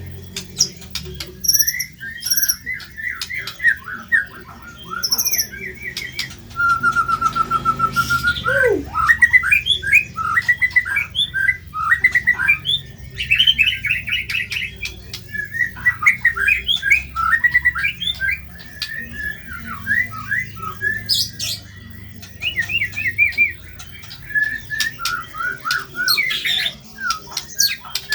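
White-rumped shama (murai batu) singing a fast, varied song of chattering, chirping and squawking phrases. About seven seconds in comes one long held whistle that ends in a steep downward slide.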